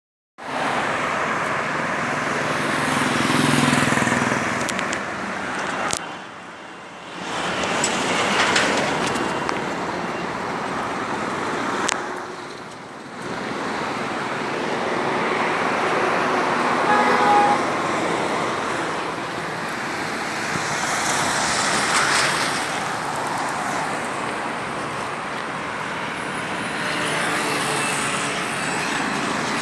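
Steady road and traffic noise from moving vehicles, dropping away briefly twice, with a short vehicle horn toot about seventeen seconds in.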